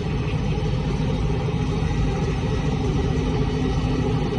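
International Harvester 3688 tractor's diesel engine running at a steady speed, heard from inside the cab as an even, low drone.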